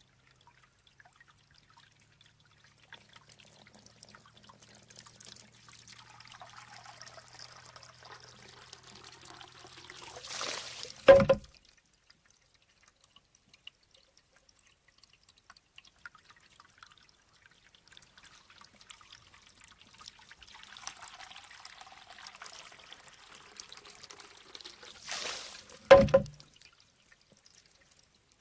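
Shishi-odoshi bamboo water fountain going through two cycles about fifteen seconds apart. Each time, water trickles into the bamboo tube and pours out in a short rush as it tips, then the tube knocks back with a single sharp clack that rings briefly.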